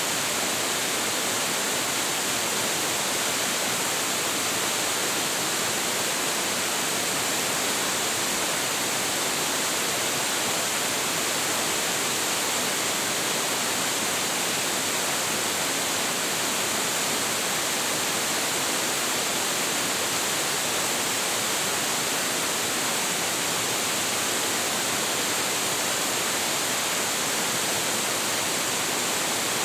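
Hiji Falls, a 25.7 m waterfall with heavy flow, pouring steadily into its pool: a constant, even rush of water with a bright hiss and no change in level.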